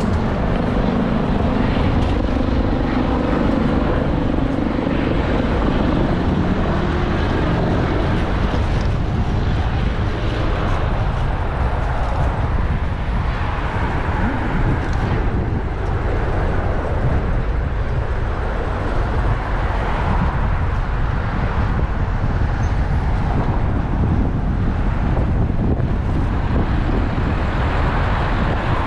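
Steady low rumble of wind buffeting a bicycle-mounted action camera's microphone while riding, with road traffic noise underneath.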